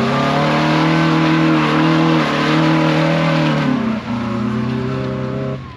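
Honda CR-V's four-cylinder engine held at high revs while driven hard off-road. The pitch stays high and dips briefly about two seconds in and again about four seconds in, then cuts off suddenly just before the end.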